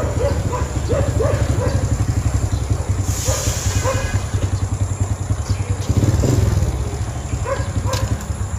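Small step-through motorbike's engine running as it is ridden a short way, with a rapid low beat, rising in a burst of throttle about six seconds in, then dropping to a lower idle near the end.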